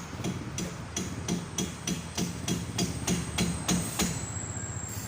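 Steady series of hammer blows on metal, about three a second, on the rear wheel hub of an Isuzu D-Max pickup while the rear wheel bearing is being knocked out.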